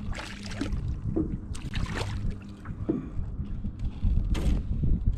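Wind buffeting the microphone in a steady low rumble, with several short splashy rushes of noise as a crappie is brought up out of the water to a small john boat.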